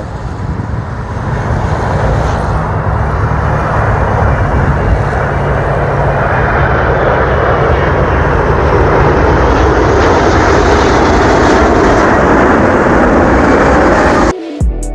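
Emirates Airbus A380's four jet engines on landing approach, a loud rush with a low rumble that builds as the airliner comes close and then holds. It cuts off suddenly near the end, where music begins.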